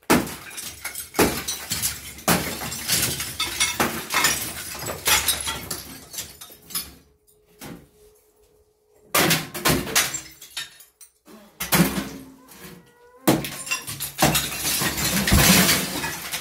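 A fireplace being smashed apart, with repeated hard hits and broken pieces crashing and clattering down, easing off briefly twice midway.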